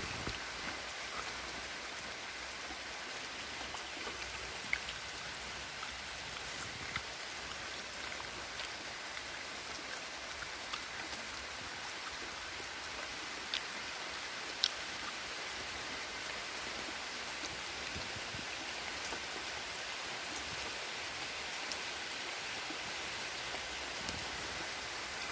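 Steady rain falling, an even hiss with single drops ticking sharply here and there, a couple of them louder about 5 and 15 seconds in.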